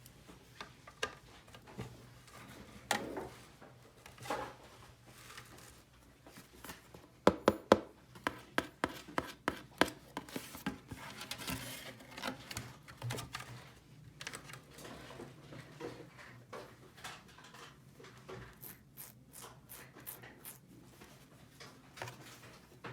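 Small plastic toy pieces being handled: scattered clicks, taps and rubbing, with a quick run of sharp clicks about seven seconds in.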